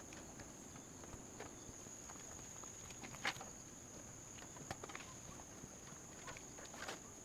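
Scattered light clicks and snaps of someone moving about or handling forest material, over a steady high insect trill.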